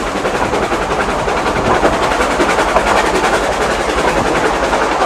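Narrow gauge steam train running, heard from on board: a steady, loud rumble and clatter of the carriage wheels on the rails.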